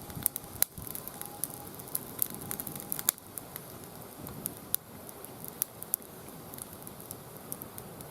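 Wood fire burning in a fire pit, crackling with irregular sharp pops and snaps over a faint steady hiss; the loudest snaps come about half a second in and again near three seconds.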